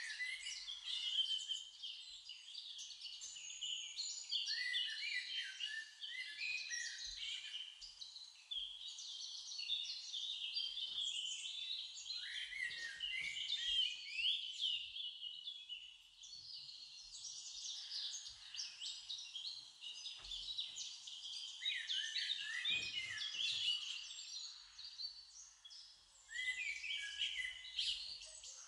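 Many small birds chirping and twittering, with dense overlapping high calls and a couple of brief lulls.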